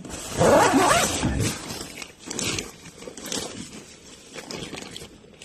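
Tent door zipper being pulled, with tent fabric rustling: one long loud zip in the first second or so, then several shorter, quieter pulls and rustles.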